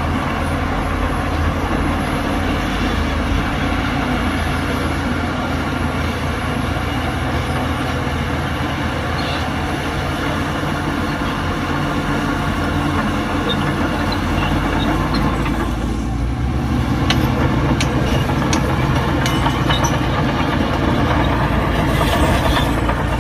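Heavy diesel earthmoving machinery running steadily with a continuous rattling clatter. About two-thirds of the way in, the low engine note grows stronger and sharp metallic clicks and knocks come through.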